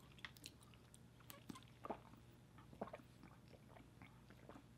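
Faint chewing of a bite of fried chicken, with scattered soft wet mouth clicks.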